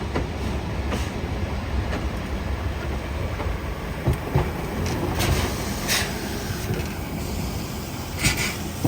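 Train running along the track: a steady low rumble of the wheels on the rails, broken by irregular sharp clacks. The strongest clacks come about five and six seconds in and near the end.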